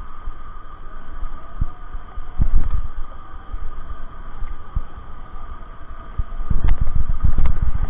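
Low rumbling buffeting with irregular thumps on a handheld or mounted camera's microphone during a bicycle ride, heavier about two and a half seconds in and again near the end, over a faint steady hum.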